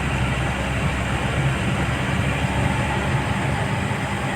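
Truck cab noise while driving: a steady engine drone with road noise.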